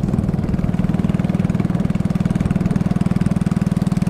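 Small engine of a motorized canoe running steadily at an even speed, with a fast, regular pulse.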